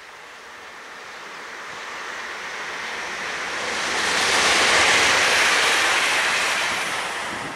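Red DB Regio electric multiple unit passing at speed: a rush of wheel and air noise that swells as it approaches, is loudest about five seconds in, then fades.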